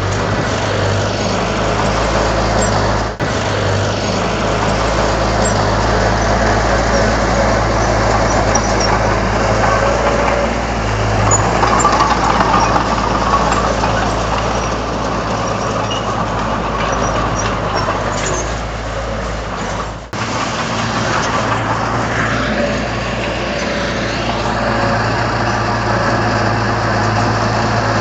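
Komatsu D31 bulldozer's diesel engine running steadily under load as it works soil, getting louder for a couple of seconds midway, with two brief dropouts.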